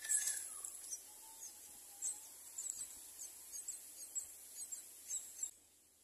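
Birds chirping: many short, very high chirps repeating, with a louder falling call right at the start. The chirping stops abruptly near the end.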